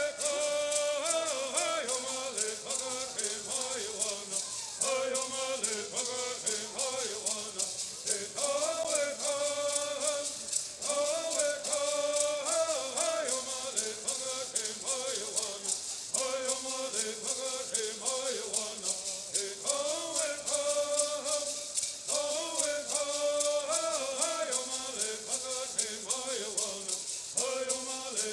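Bird songs: a group of singers chanting in repeated phrases that break off every four or five seconds, over the steady, rapid shaking of hand-held gourd rattles that never stops.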